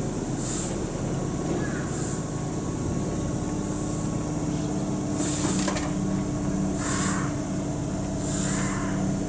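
Keihan 1000-series electric train setting off from the platform after its doors close: a steady low electrical hum from the train, with short hisses about every second and a half in the second half.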